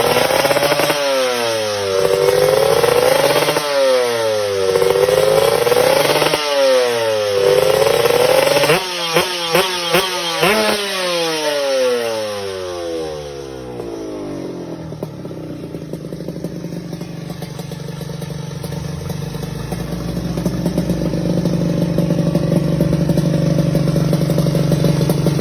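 Two-stroke motorcycle engine being revved over and over, each rev sweeping up and dropping back about every second and a half. Three quick sharp blips follow, then the engine falls back to a lower steady run that slowly grows louder.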